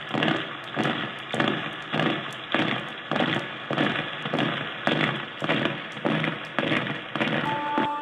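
A steady beat of dull thumps, about two a second, like a drum or percussion track playing for the stage action. Near the end a held keyboard note comes in.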